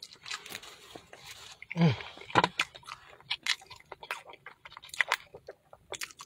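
A person chewing crispy fried food close to the microphone, with many quick crunches and wet mouth clicks, and a short voiced murmur about two seconds in.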